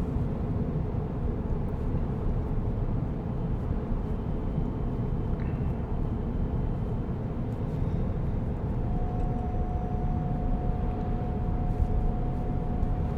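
Steady road and tyre noise inside the cabin of a moving Tesla Cybertruck, an electric truck with no engine note. A faint steady tone joins about nine seconds in.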